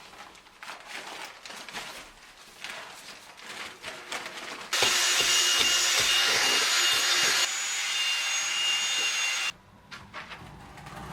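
Aerated concrete blocks being cut. Irregular scraping strokes at first, then about five seconds in a power tool runs loud and steady with a high whine. It drops a little partway and cuts off suddenly about four to five seconds later.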